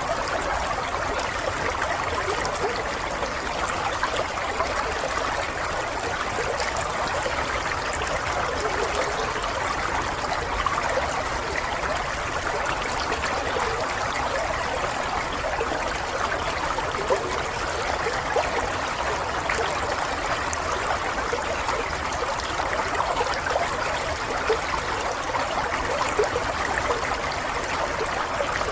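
Running water: a steady, continuous babble of a small stream trickling over stones, with a fine splashing texture and no breaks.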